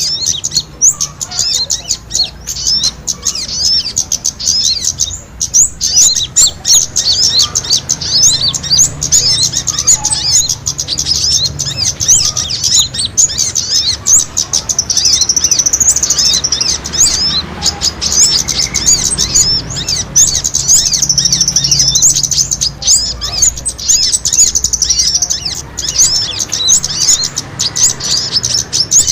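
Many small birds chirping and twittering at once in a dense, unbroken high-pitched chatter: the agitated calls of small birds squabbling, as used in a lure recording to draw in other birds.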